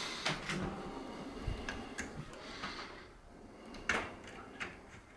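A few separate sharp knocks and clicks, like household items being handled, the loudest about four seconds in.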